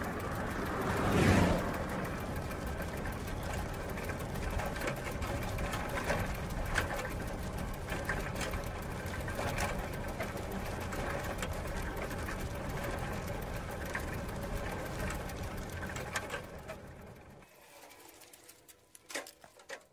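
Bicycle wheel and chain spinning: a fast, even whirr full of rapid ticking, with a louder swell about a second in. It dies away about seventeen seconds in, leaving a few separate clicks near the end.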